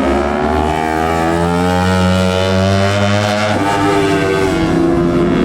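Race motorcycle engine accelerating hard, its pitch climbing steadily, with an upshift about three and a half seconds in, after which the pitch climbs again.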